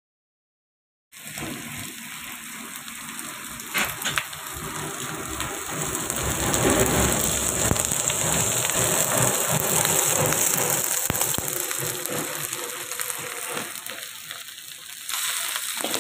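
Buffalo tripe, onion and tomato sizzling as they fry in a large iron wok, an even hiss that starts about a second in and swells toward the middle, with a couple of sharp clicks around four seconds in.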